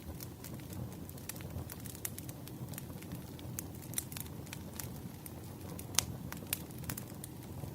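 Campfire crackling: irregular snaps and pops over a steady low rush of burning wood, with one sharper pop about six seconds in.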